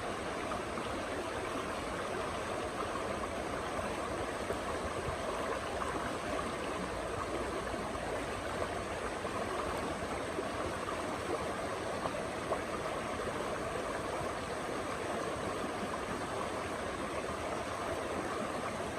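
A river or stream flowing, a steady rushing of water.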